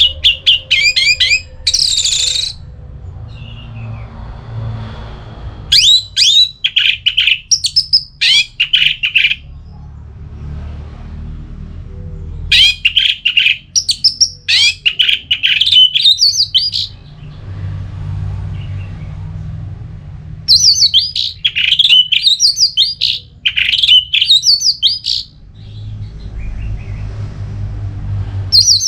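Orange-headed thrush singing its full, loud song: bouts of fast, varied whistled phrases a few seconds long, separated by pauses of a few seconds, five bouts in all, the last starting near the end. A low hum runs underneath.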